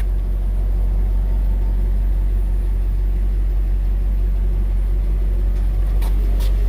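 A 2003 GMC box truck's engine idling steadily with a low rumble, with a few light clicks near the end.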